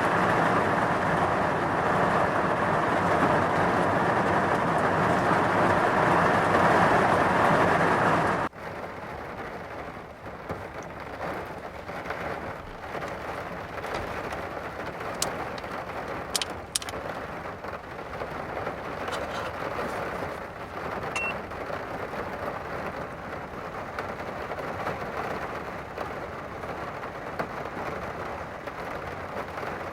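Heavy typhoon rain pouring, loud and steady, then an abrupt change about eight seconds in to softer, steady rain with a few scattered drips.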